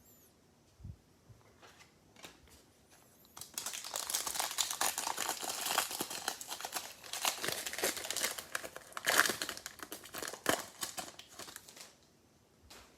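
Plastic trading-card pack wrapping being torn open and crinkled by hand, a dense crackling rustle for about eight seconds after a few faint handling taps.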